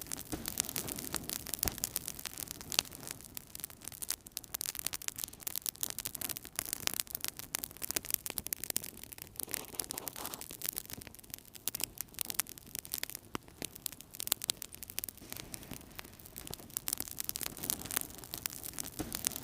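Wood fire burning in a fireplace, crackling with many quick snaps and pops over a low rushing of the flames.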